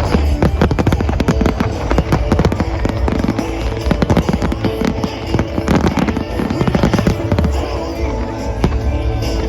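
Fireworks bursting and crackling in rapid, dense volleys over music playing from the show's loudspeakers; the crackling thins out near the end.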